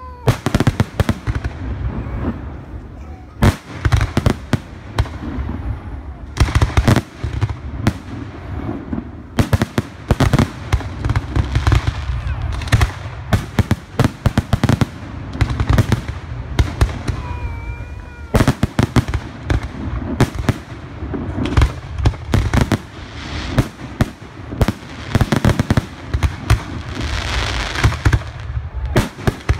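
Fireworks display: a rapid, continuous barrage of shell bangs and crackling. A few short whistles sound about halfway through, and a burst of dense crackle comes near the end.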